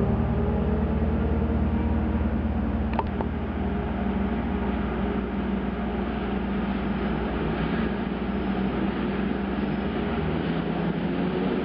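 Electric locomotive hauling a passenger train along a station platform: a steady rumble of wheels and motors with a low hum, and a single sharp click about three seconds in.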